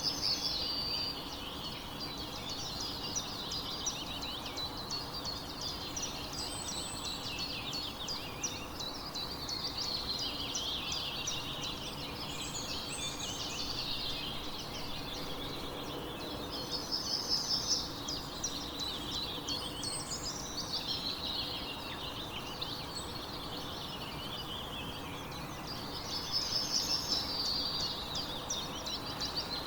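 Chorus of small songbirds chirping and trilling without a break over a steady background hiss. Louder bursts of rapid repeated notes come at the start, about halfway through, and near the end.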